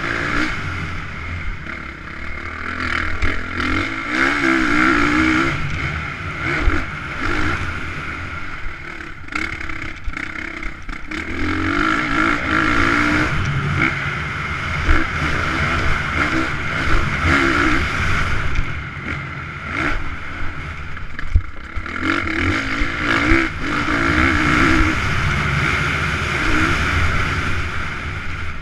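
Motocross bikes' engines revving hard and changing pitch as they race round the track, the sound swelling and fading in repeated surges as bikes come near and go away, with scattered sharp clicks and clatter.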